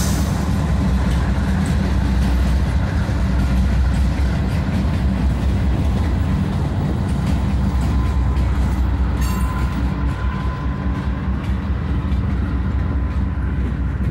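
Norfolk Southern freight train rolling past, a steady loud rumble of wheels on the rails, with a faint brief squeal about two-thirds of the way through.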